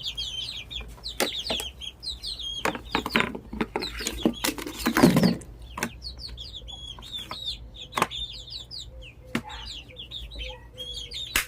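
A brood of young chicks peeping: many short, high chirps overlapping throughout. Scattered sharp knocks and taps are mixed in, the loudest about five seconds in.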